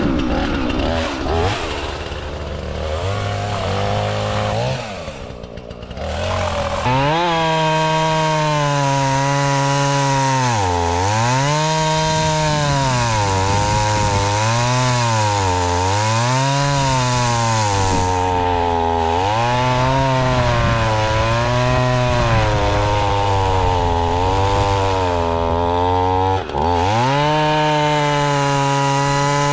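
Husqvarna two-stroke chainsaw running at a low idle, then revved up about seven seconds in and cutting through ash wood. Its engine note sags and recovers several times under load.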